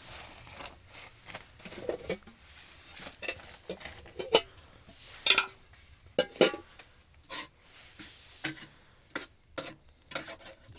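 Irregular knocks and clinks of hard objects being handled, some ringing briefly, the loudest about four and five seconds in.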